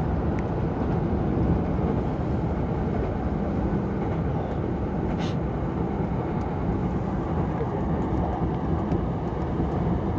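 Tobu 70000 series electric train running at speed, heard from inside the driver's cab: a steady rumble of wheels on rail and running gear, with one short sharp click about five seconds in.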